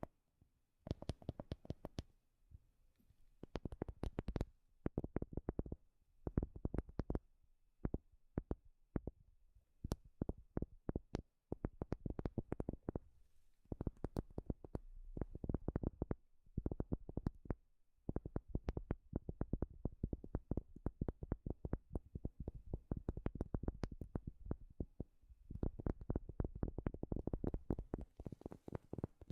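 Fingertips tapping on wood in quick rolling flurries, many light knocks each second, with brief pauses between flurries.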